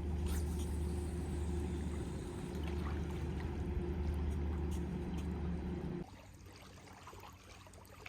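Steady low engine hum with water sounds, cutting off abruptly about six seconds in.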